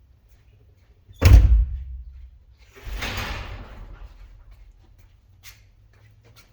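A single loud slam about a second in, then a softer scraping rustle about two seconds later.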